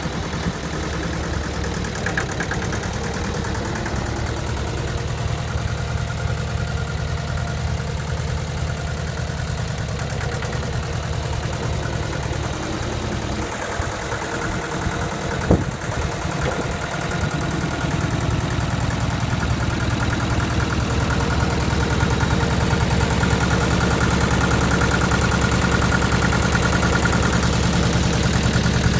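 Massey Ferguson 210's two-cylinder diesel engine running steadily at idle. About halfway through the engine note dips briefly with a single sharp click, then it runs a little louder for the rest.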